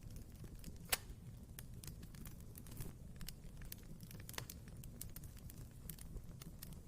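Wood fire burning in a fireplace: a steady low rumble of flames with irregular sharp crackles and pops from the burning logs, the loudest pop about a second in.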